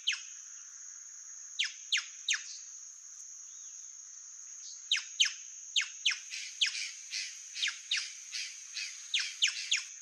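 A bird calling in quick descending whistled notes, some alone and some in rapid runs of two or three, coming thicker in the second half, over a steady high-pitched insect drone.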